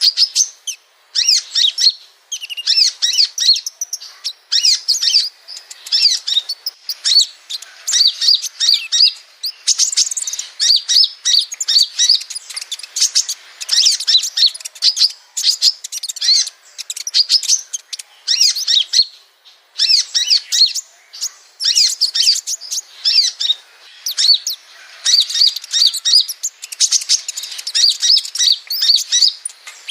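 Sunbird song: rapid, high-pitched twittering chirp phrases in quick succession, broken by short pauses.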